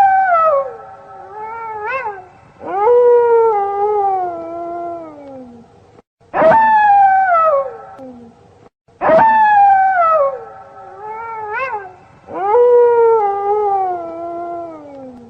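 Cartoon sound effect of an animal howling: long wavering calls that slide down in pitch, with a short rising yelp between them. The sequence plays twice.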